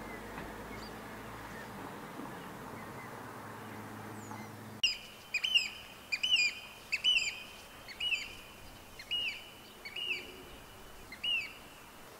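A low steady hum for the first few seconds. Then, from about five seconds in, a bird calls over and over, roughly once a second, each call a short sharp note that rises and falls.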